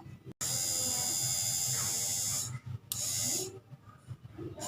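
Car power window motor, a small electric motor, running in short bursts with a steady buzzing whine. It runs for about two seconds, stops, then runs again for about half a second before cutting off.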